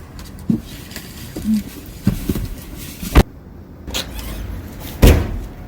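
Handling knocks and thumps: a few light knocks, then two heavy thuds, one about three seconds in and a louder one near five seconds.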